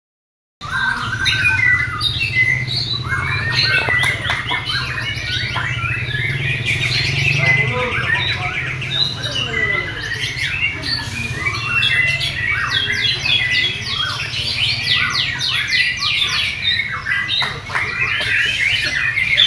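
A songbird singing a fast, varied song of chirps, trills and harsh squawks, over a steady low hum.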